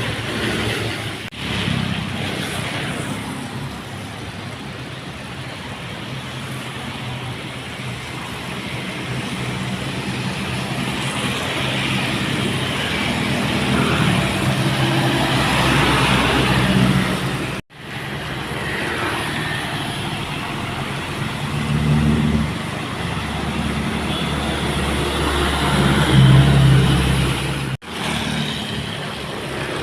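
Diesel engines of heavily loaded dump trucks labouring as they drive past, swelling louder several times. The sound cuts off abruptly three times, about a second and a half in, midway and near the end.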